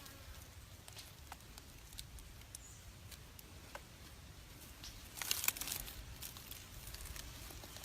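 Faint scattered crackles and clicks, with a brief louder burst of crackling and rustling about five seconds in.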